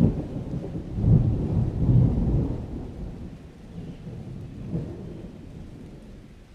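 Thunder rolling over steady rain: several deep swells in the first two and a half seconds, then the rumble dies away slowly.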